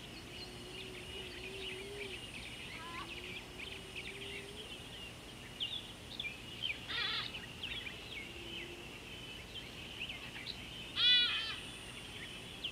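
Wild birds chirping continuously in a busy outdoor chorus. A low wavering hum runs through the first few seconds. A louder, harsher call cuts in about seven seconds in, and the loudest call comes about eleven seconds in.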